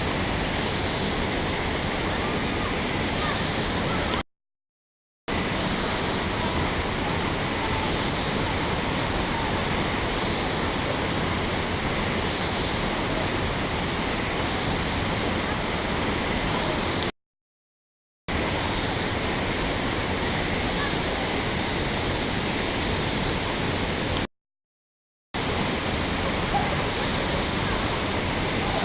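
Waterfall pouring: a steady, dense rush of falling water that cuts out to silence for about a second three times.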